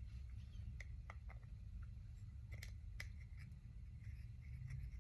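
A few faint, sharp clicks and taps of small metal hair-clipper parts being handled and fitted together, over a steady low hum.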